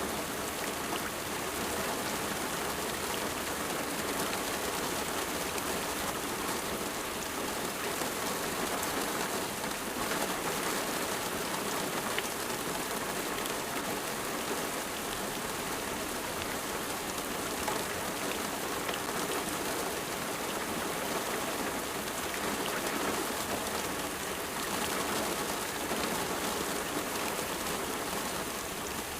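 Steady rain falling on a surface, an even hiss with scattered small drop taps.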